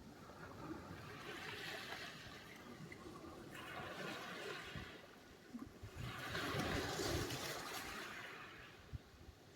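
Sea surf: small waves washing up the shore in three swells of hiss, the last and loudest about six seconds in.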